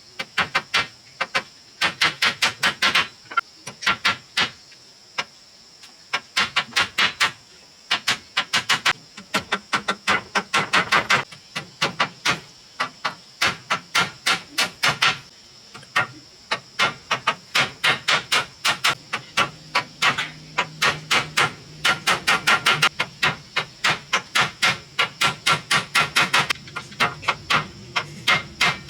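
Hammering on wood: quick runs of sharp strikes, several a second, broken by short pauses every second or two.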